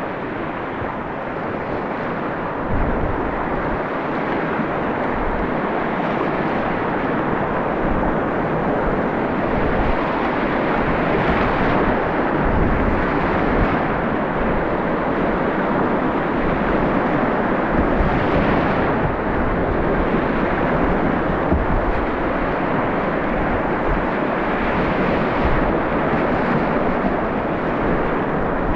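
Steady loud rush of whitewater in a mountain river valley, with frequent low buffeting on the microphone.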